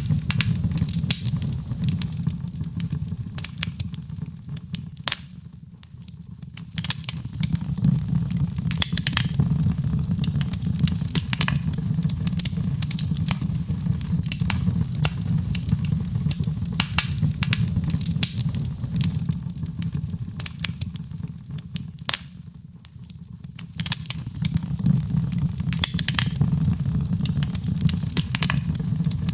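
Wood fire burning in a fireplace, crackling and popping with frequent sharp snaps over a steady low rumble of flames. Twice the rumble dies down for about a second, then returns.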